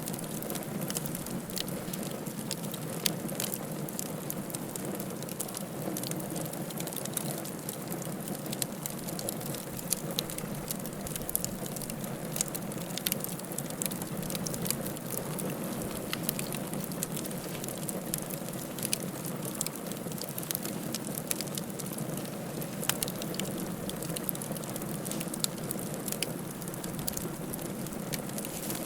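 Wood fire in a fireplace crackling, with frequent sharp, irregular pops and snaps over a steady low rushing of the flames.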